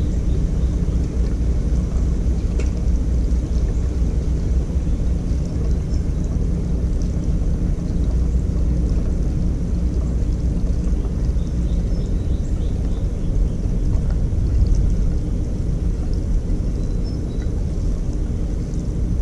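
Stump grinder's 13 HP Honda single-cylinder petrol engine running steadily under a constant low drone.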